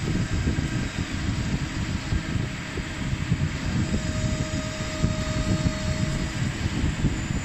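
Steady running noise of CNC machinery and a robot cell on a machine-shop floor, a dense low rumble with a faint whine for about two seconds midway.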